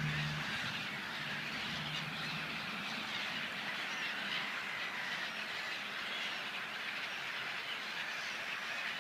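Steady, dense chatter of a large flock of birds massed on the water, with a low hum that fades out in the first couple of seconds.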